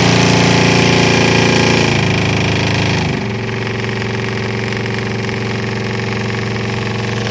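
Volkswagen Passat B7 cabin blower fan running with a steady droning hum, its pitch and level stepping down about two seconds in and again about three seconds in. The fan is working abnormally, for a reason the owner cannot yet explain.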